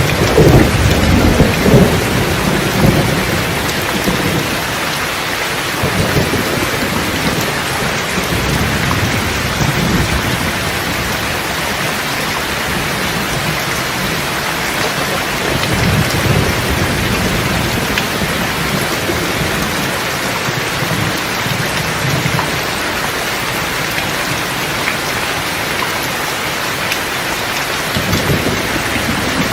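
Steady heavy rain with rolling thunder. The rumbles swell in the first few seconds, and weaker rolls come and go later.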